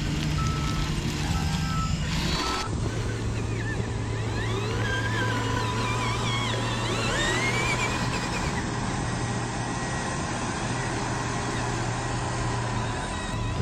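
Steady low engine-like hum from a radio-controlled Shacman truck, with short evenly spaced reversing beeps in the first couple of seconds. The sound changes abruptly about two and a half seconds in; after that the hum carries on under a steady high tone and scattered warbling chirps.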